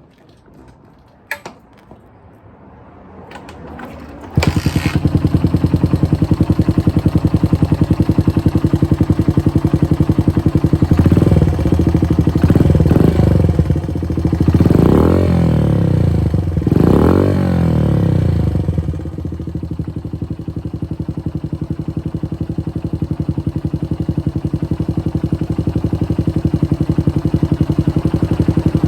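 Honda Ape 50's small single-cylinder engine, breathing through a BEAMS exhaust with the baffle removed. After a few clicks it starts about four seconds in and idles loudly. It is revved several times in the middle, then settles back to idle.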